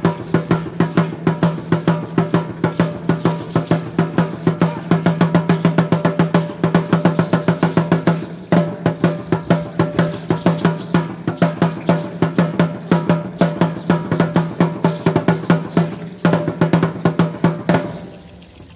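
Aztec dance drumming: a fast, even beat on a deep, ringing drum that stops shortly before the end.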